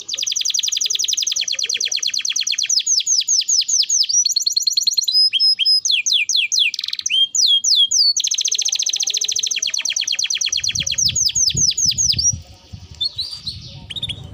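Domestic canary singing. It opens with a long, very fast roll, has a few slower sweeping whistled notes in the middle, and finishes with a second long roll. Low rumbling noise comes in under the second roll.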